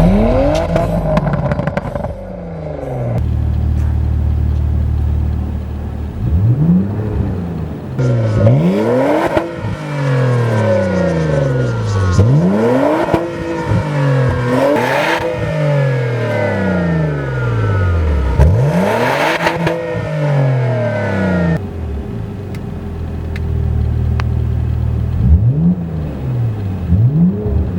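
Porsche Macan's twin-turbo V6 through an Armytrix cat-back valvetronic exhaust, revved repeatedly: each rev rises and falls back to a steady idle, and a run of quick short blips comes near the end.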